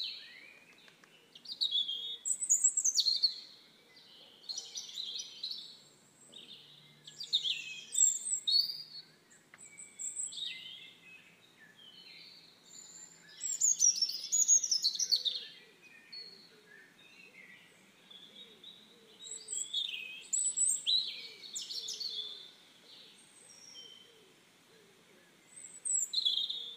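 Birds singing: quick, varied high chirps and trills that come in bunches every few seconds, with short quieter gaps between them.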